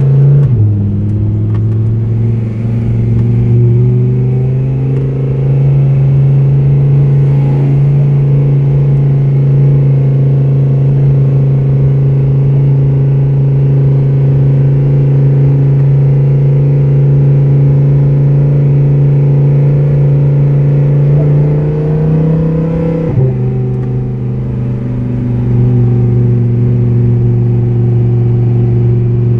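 Lamborghini Huracán's 5.2-litre V10 heard from inside the cabin, pulling steadily at low speed in second gear with a constant drone. About 21 seconds in the engine pitch climbs and then drops abruptly, as at an upshift.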